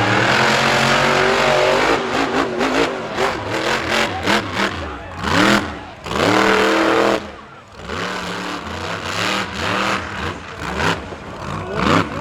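Monster truck engine revving hard in repeated bursts, its pitch climbing and falling again and again, with a short lull about seven seconds in.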